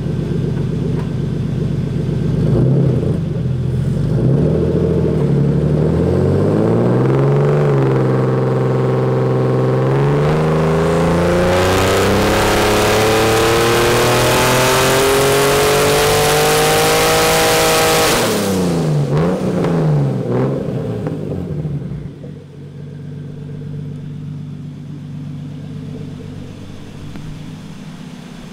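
Turbocharged BMW E36 M3 straight-six on a hub dyno making a full-throttle pull. The engine note climbs steadily in pitch for about eight seconds under boost. It then cuts off suddenly as the throttle is lifted, and the revs fall back to idle.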